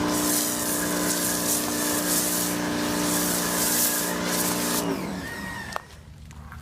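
AR Blue Clean AR390SS electric pressure washer running with its water jet hissing. About five seconds in the spray stops and the motor winds down to a stop.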